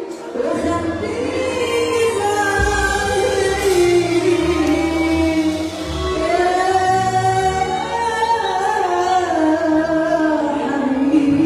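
A woman singing long, slowly gliding, ornamented notes in Egyptian Arabic style over instrumental backing with a moving bass line.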